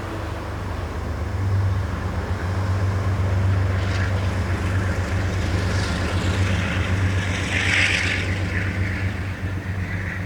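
Train going by: a steady low engine rumble, with a brief rise in higher-pitched noise about eight seconds in.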